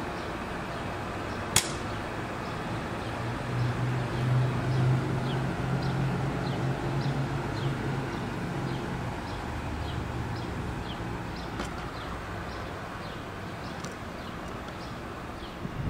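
Amtrak Pacific Surfliner train rolling past at low speed: a low, steady engine hum that swells about four to five seconds in and then eases off, over wheel-on-rail rumble. Short high bird chirps repeat about once a second throughout, and there is one sharp click early on.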